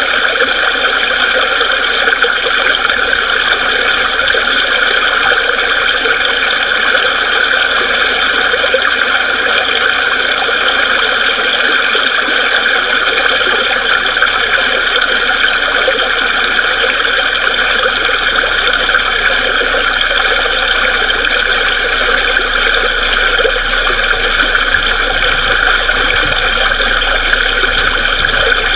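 Creek water babbling steadily over rocks, an even rushing and splashing that does not let up.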